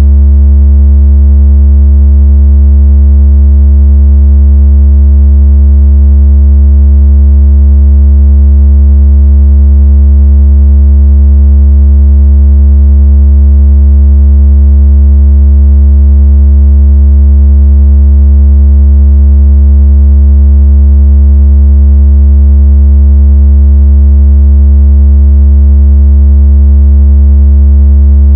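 Synthesized deep vibration tone of the kind played to shake water out of a phone speaker, held perfectly steady and very loud with a faintly buzzy edge and no change in pitch or level.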